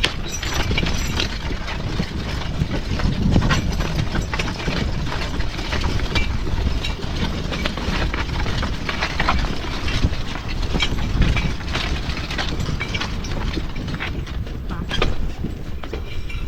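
Draft horse pulling a horse-drawn garden cultivator: hoofbeats and the clatter and rattle of the cultivator and harness, as irregular clicks over a steady low rumble.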